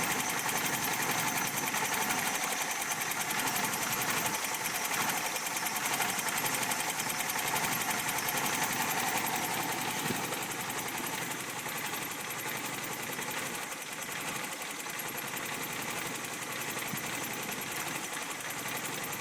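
Suzuki Wagon R MC22S three-cylinder engine idling roughly, with a rapid, uneven pulsing as it shakes hard. This is the rare fault in which it runs on the edge of stalling with the engine warning lamp lit.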